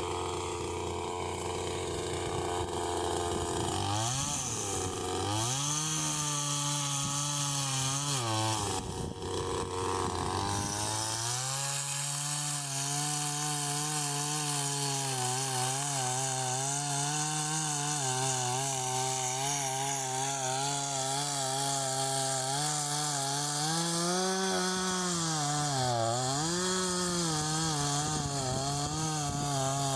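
Chainsaw engine running at a steady low speed, then revving up about four seconds in. It eases off briefly around nine seconds and then runs at high speed, cutting firewood, its pitch wavering and dipping now and then under load.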